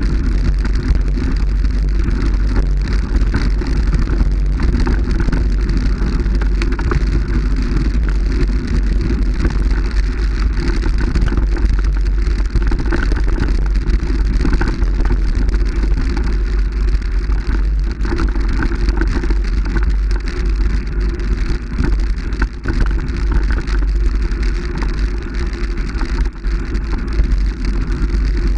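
Continuous rumbling noise of a moving vehicle, with heavy low buffeting on the microphone.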